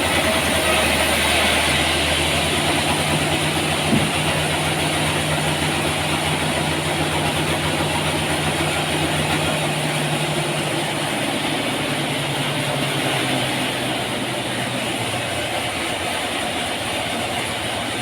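Sawmill machinery running steadily with a low hum, with a single sharp knock about four seconds in; the deepest part of the hum drops away about ten seconds in.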